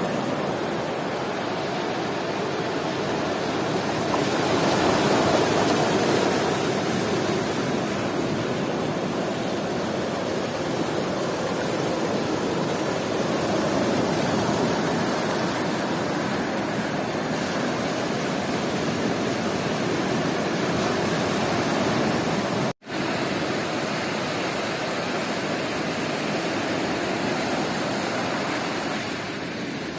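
Sea surf washing steadily onto a beach, a continuous rushing noise that swells and eases slightly, cut off for a split second about three quarters of the way through.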